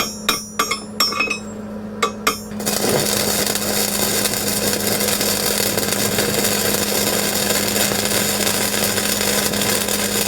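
A few sharp metal clinks, then from about two and a half seconds in the steady crackling hiss of an electric welding arc, as a steel tamper foot is welded onto a jackhammer bit's shaft. A steady low hum runs underneath.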